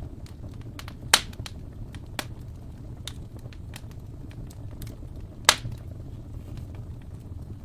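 Wood fire crackling in a fireplace: a steady low rumble of flames with scattered small crackles, and two loud sharp pops, about a second in and again about five and a half seconds in.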